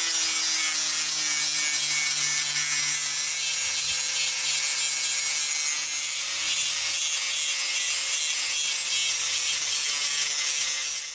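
Angle grinder grinding down welds on a steel pipe frame, a steady high hiss of abrasive on metal that stops abruptly near the end.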